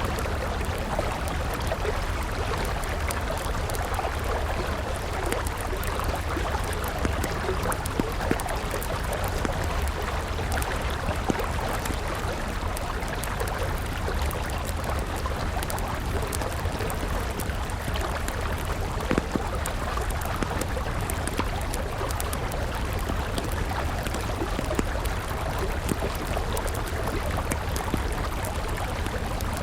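Steady rush of a flowing river mixed with a crackling wood fire, small sharp pops of burning wood scattered all through.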